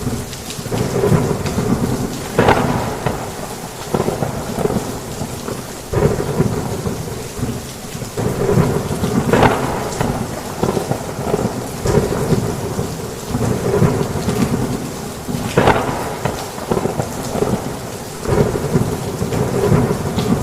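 Heavy rain on a roof with thunder rumbling, the low, dense downpour swelling and easing every second or two. Louder swells come about two and a half, nine and a half and fifteen and a half seconds in.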